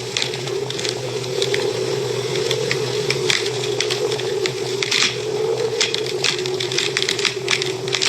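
Wood fire crackling in a fireplace, with frequent small sharp pops and snaps at irregular moments over a steady low hum.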